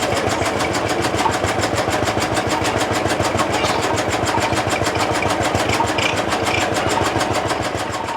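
Lanz Bulldog's single-cylinder hot-bulb engine running steadily with an even, rapid beat.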